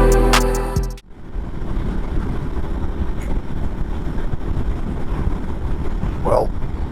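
Background music cuts off about a second in, giving way to the steady rumble of a motorcycle being ridden on the road, engine and road noise.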